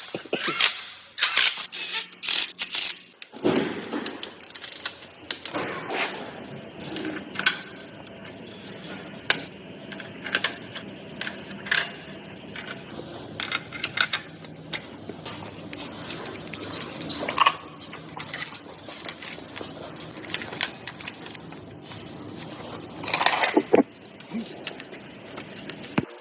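Metal parts and hand tools clinking and clicking during engine assembly. A quick run of sharp clicks comes in the first few seconds, followed by scattered single clinks and a second cluster near the end.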